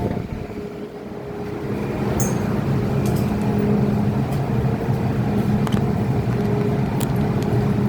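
MTR M-Train electric multiple unit pulling away from the platform: traction motor hum and running noise build up over the first couple of seconds, then carry on steadily, with a few light clicks.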